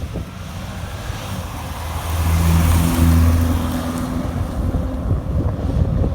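A car driving past with its engine running, loudest about two to three seconds in, then fading, with wind on the microphone.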